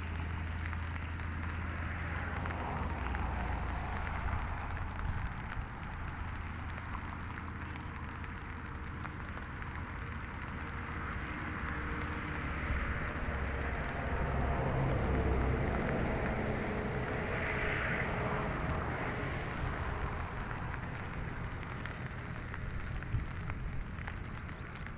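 Light rain falling, a steady patter of drops, over a constant low rumble.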